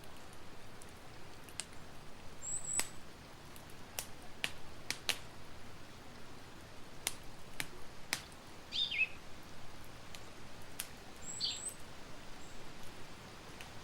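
Wood campfire crackling, with about a dozen sharp pops at irregular intervals over a steady soft hiss. A bird chirps briefly a few times, high-pitched, about a third of the way in and again near the end.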